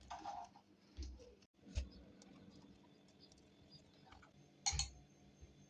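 Faint, scattered light clicks and taps over a low steady hum, with the clearest ones about a second in, near two seconds and near five seconds.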